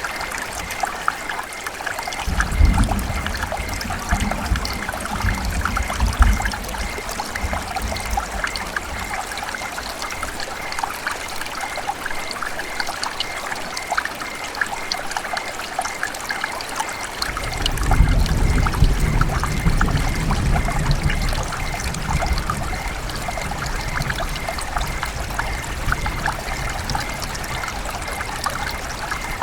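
River water running and trickling in a steady babble full of small splashes. A low rumble swells in twice, a couple of seconds in and again after about seventeen seconds.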